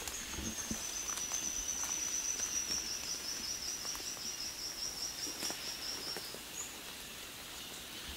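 A high, thin trilling call from a wild insect or bird, held for about six seconds. It drifts slowly down in pitch and breaks into a fast pulsing trill before stopping, over a few faint clicks.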